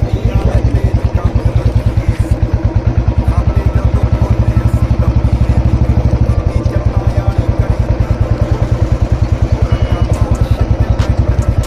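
Royal Enfield Classic 350's single-cylinder engine and exhaust thumping along under way, a steady, even beat of about ten pulses a second.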